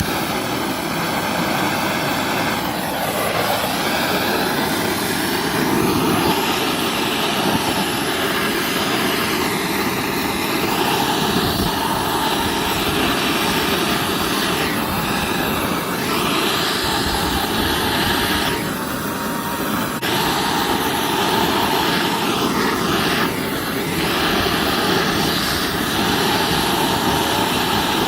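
Small two-stroke engine of a Kioritz SRE2350G brush cutter running steadily.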